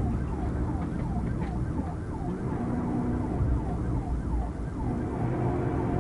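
Police car siren in yelp mode, a quick falling wail repeating about three times a second, over the steady low rumble of the car's engine and road noise.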